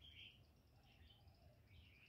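Near silence: a few faint, short bird chirps over a low background hum.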